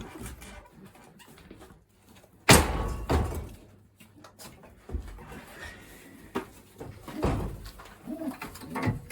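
Racing pigeons being handled: a loud sharp knock about two and a half seconds in, a second knock soon after, and softer knocks and shuffling, with pigeon sounds.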